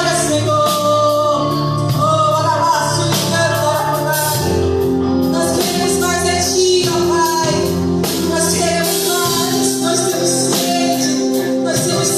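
Live gospel worship music: a band with drum kit and cymbals playing under congregational singing.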